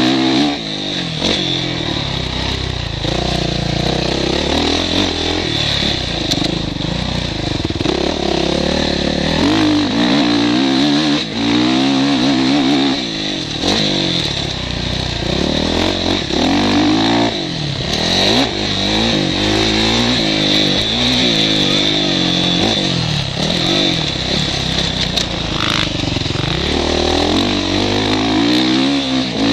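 Motocross bike engine revving up and down again and again as it accelerates, shifts and backs off, heard from the rider's helmet.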